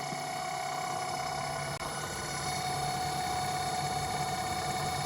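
Home-built CNC lathe running, a steady motor whine made of several held tones over a low hum, growing slightly louder about two seconds in.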